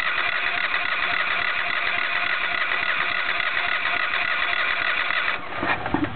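Electric starter cranking the Robin 18 hp Subaru generator engine steadily for about five seconds without it catching, then stopping; the engine has sat unrun for a long time and won't start.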